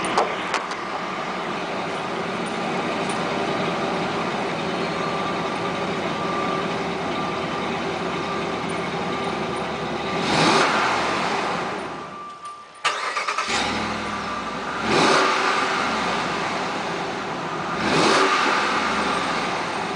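Dodge Ram 1500's 5.7 L Hemi V8 running on its stock exhaust, idling steadily and revved up and back down three times in the second half.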